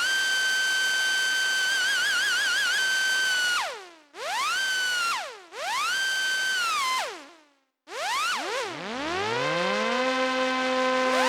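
Roland JX-8P analog polysynth playing a bright lead patch. A single note swoops up in pitch, holds with a short stretch of vibrato, and slides down and fades; two more notes follow in the same way. Near the end, a lower chord glides up from deep in the bass and holds.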